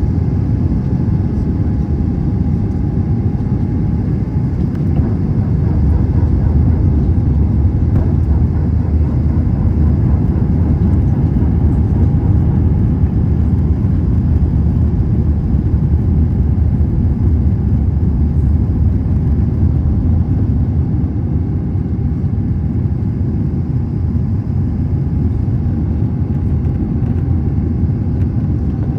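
Steady airliner cabin noise inside an Airbus A321 in flight: a loud, even rumble of engines and airflow, with a faint steady whine above it.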